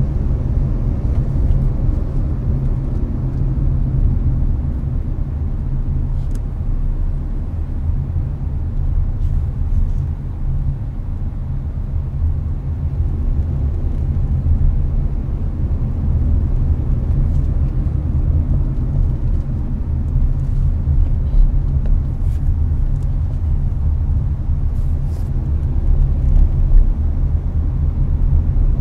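Inside the cabin of a Hyundai Avante cruising on the highway: a steady low road and tyre rumble with the car's air conditioning blowing. There are a few faint clicks.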